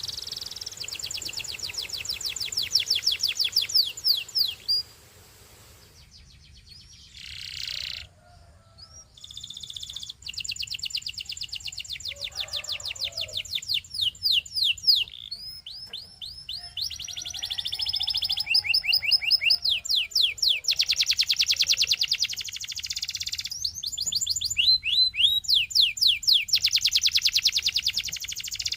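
A domestic canary singing long, rapid trills of quickly repeated notes, phrase after phrase, with a pause of a few seconds about five seconds in.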